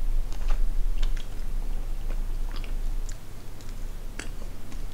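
Close chewing of a soft Haribo fruit gum: scattered faint wet clicks and smacks from the mouth, over a low steady hum.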